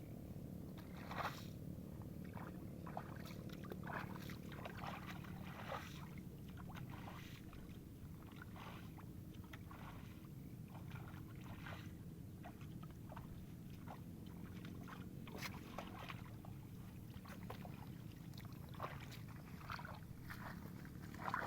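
Wet paddy mud and water being worked, giving many short, irregular sloshes and squelches over a steady low hum.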